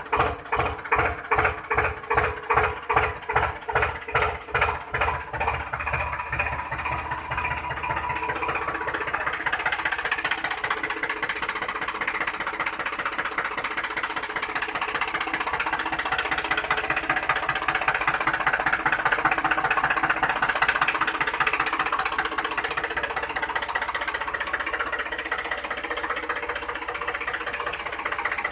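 Engine-like chugging of a DIY mini tractor: slow, even beats that speed up after a few seconds into a steady rapid buzz, like a small engine gathering revs.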